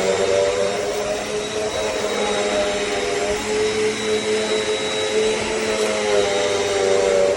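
Eureka NEU10AE4 AirSpeed bagless upright vacuum cleaner running, a steady rushing whine whose motor pitch dips and recovers every few seconds.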